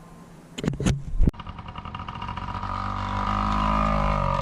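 Motorbike engine running steadily and slowly getting louder, after a few sharp knocks about a second in.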